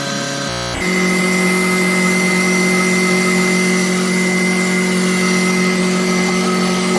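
CNC-converted Grizzly G0619 milling machine running, a steady motor whine that jumps to a new, louder pitch just under a second in and then holds steady.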